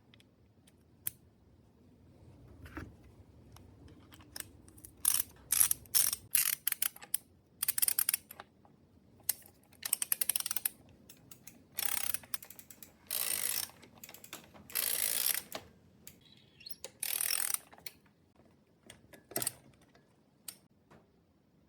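Ratchet wrench clicking in a series of short bursts of rapid strokes, with single clicks between them: a crank bolt being worked loose as the crankset is removed.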